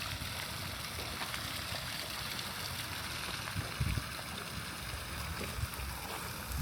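Steady hiss of falling rain, with scattered low thumps and rumble on the microphone.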